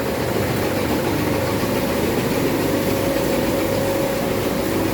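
Cacao bean crusher and winnowing machine running steadily, cracking the roasted beans and separating the nibs from their husks.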